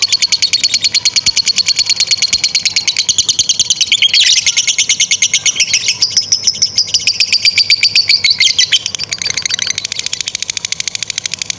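Lovebird in long 'ngekek' song: a rapid, unbroken chattering trill of sharp high notes. It is drawn into a smoother, longer phrase in the middle, then drops back to a quieter fast chatter near the end.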